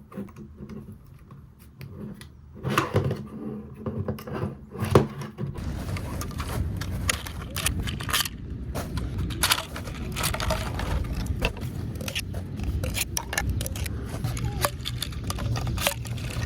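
Hard plastic parts clicking and knocking as they are handled and packed. About five seconds in, a steady low rumble of outdoor noise takes over, with frequent small clicks and clatter of handling.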